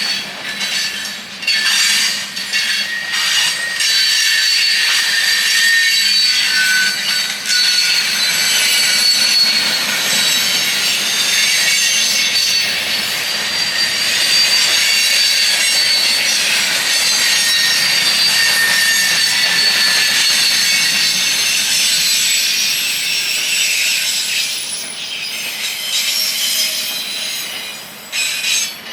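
Railroad cars rolling past with their wheels squealing in several high, steady tones that shift slowly, over rumbling track noise, with a few knocks from the wheels in the first few seconds.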